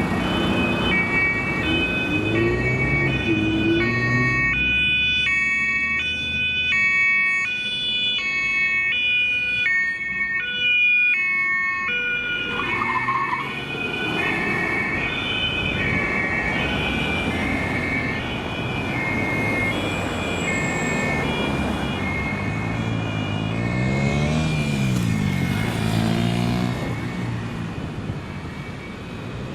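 German police two-tone siren (Martinshorn) sounding its high–low alternation over city traffic noise, strongest about a third of the way in and fading somewhat afterwards. Near the end a vehicle's engine note rises and falls in pitch.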